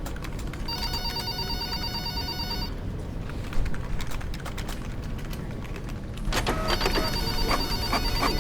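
Electronic telephone ringing with a warbling trill: one ring of about two seconds, then a second ring about four seconds later. A steady rhythmic beat starts just before the second ring.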